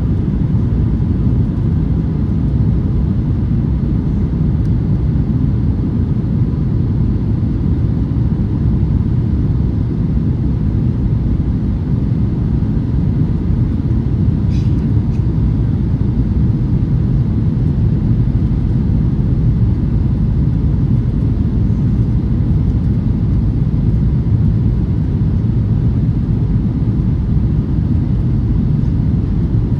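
Steady low rumble of a Boeing 737-800 airliner's cabin in flight on approach: engine and airflow noise heard from inside at a window seat.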